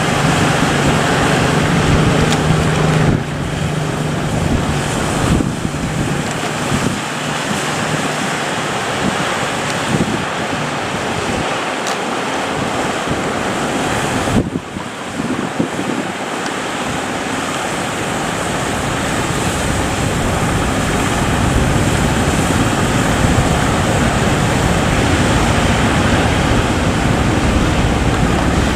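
Heavy sea surf breaking, with strong wind buffeting the microphone. A low steady hum sits under it for the first few seconds, and a low rumble builds over the last third.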